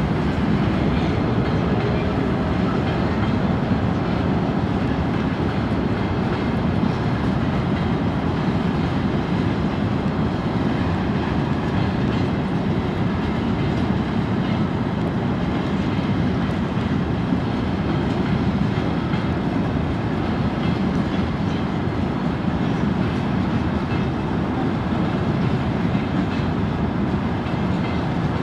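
Freight train of open-top wagons rolling past at a steady speed, wheels running over the rails.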